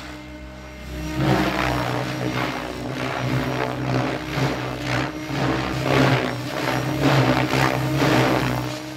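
A KDS Agile 7.2 700-size RC helicopter flying 3D aerobatics: its main rotor blades whoosh in repeated swells, a little more than one a second, over a steady rotor and motor hum.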